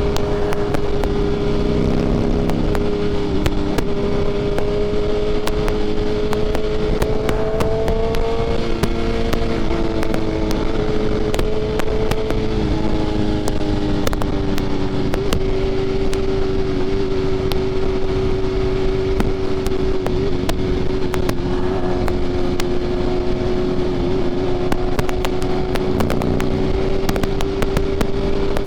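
BMW S1000RR sport bike with an aftermarket SC Projects exhaust cruising at steady engine speed, the pitch rising slightly about eight seconds in and easing back a few seconds later, over steady wind and road noise.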